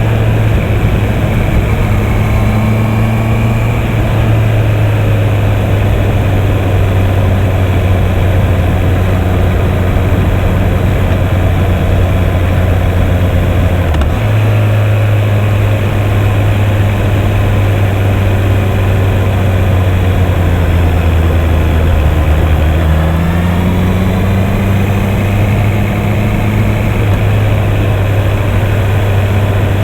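Honda CB650R's 649 cc inline-four engine running steadily under way. The engine note shifts abruptly about halfway, and rises in pitch later on.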